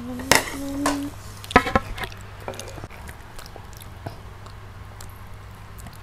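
A child hums a short steady note and makes a couple of brief loud vocal sounds in the first two seconds. Then soft chewing and biting on fried chicken, with small scattered mouth clicks, over a faint steady low hum.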